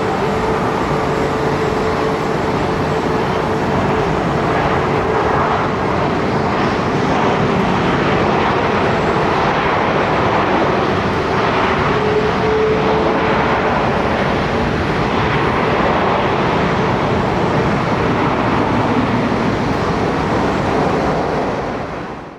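Jet airliner engines running: a loud, steady rush with a faint steady whine. The sound fades out sharply at the very end.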